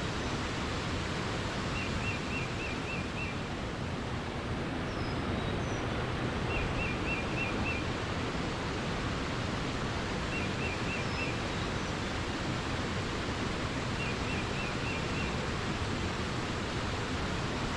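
Steady rush of flowing water, with a small bird repeating a short, quick phrase of five or six notes four times, about every four seconds, and a few faint high chirps.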